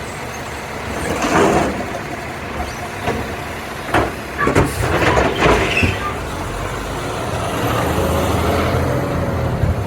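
Garbage truck running, with several sharp hisses and clanks in the first half, then its engine growing louder in the second half.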